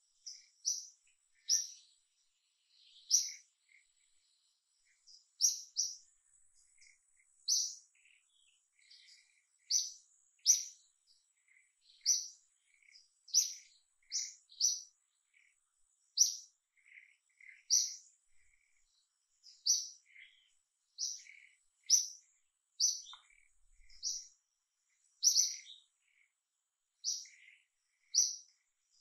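A bird calling with short, high chirps repeated every second or two, sometimes in quick pairs, with softer, lower notes in between.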